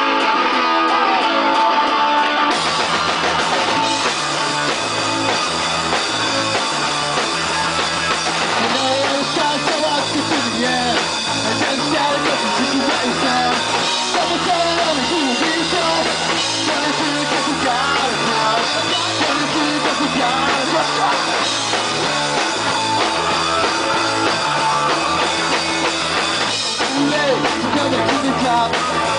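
Live pop-punk trio of electric guitar, bass and drum kit playing a song. The guitar plays for about the first two seconds, then the bass and drums come in.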